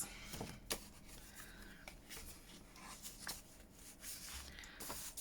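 Faint rubbing and rustling of paper as hands handle and smooth a journal page, with a few light taps and clicks.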